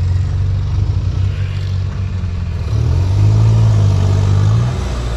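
Tractor diesel engine running hard, revving up louder for about two seconds near the middle, then easing back.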